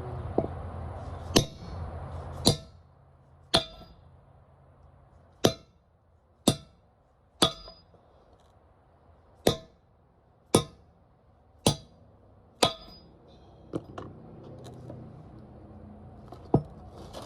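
Hammer blows driving the long wheel studs out of a full-floating rear axle's hub and brake drum: about a dozen sharp metal-on-metal clangs, roughly one a second, each with a short ring.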